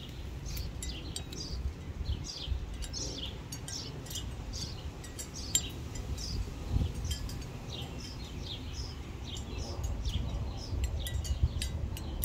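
Songbirds chirping over and over, many short, quickly falling high notes, over a steady low rumble.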